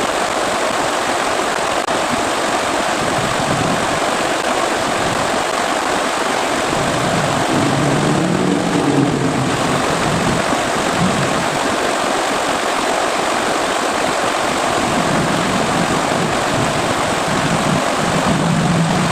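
Heavy rain falling: a loud, steady hiss, with a faint low hum rising briefly about halfway through and again near the end.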